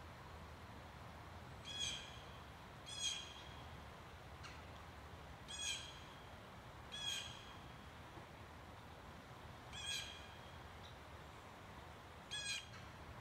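A bird calling: six short calls spaced one to three seconds apart, over a faint steady background.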